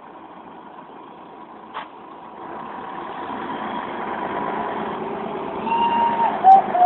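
Heavy vehicle engine running under load, getting steadily louder from about two and a half seconds in. A single sharp click comes just under two seconds in, and a long, high, wavering tone joins near the end.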